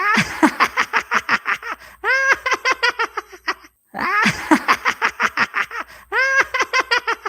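Cartoon laughter sound effect: a rapid run of laughs, about eight to ten pulses a second. The same laugh plays twice in a row.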